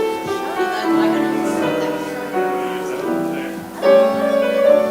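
Slow keyboard music: a melody over held chords, with a louder note struck about four seconds in.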